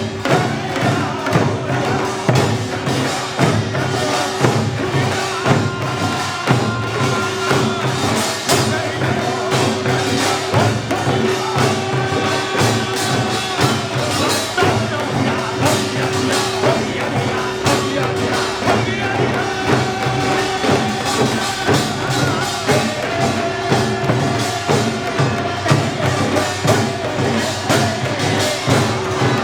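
Korean pungmul folk ensemble playing: dense, driving hand-drum and gong percussion in a steady rhythm, with a held drone and a melody line carried above it.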